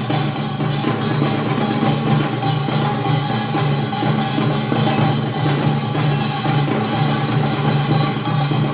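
Korean traditional percussion ensemble of janggu, kkwaenggwari, buk and jing playing a fast, steady rhythm, with sharp metallic strokes over a sustained ringing tone.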